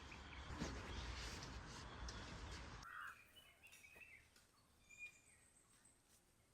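Faint outdoor ambience with a few quiet bird chirps. A steady rushing noise fills the first three seconds and cuts off suddenly, leaving quieter background.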